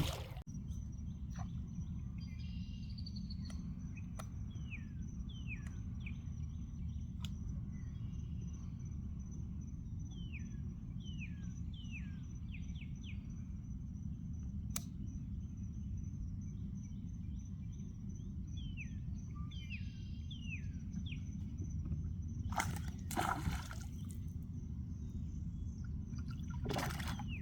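Outdoor pond ambience: a steady low rumble with short, falling bird calls repeated throughout and a faint, steady high buzz. Two brief, noisy rushes come near the end.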